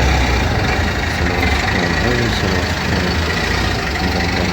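A vehicle engine running steadily with a low rumble, over a continuous wash of traffic noise.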